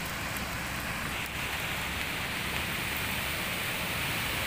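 Rain falling steadily on a flooded street, an even wash of water noise.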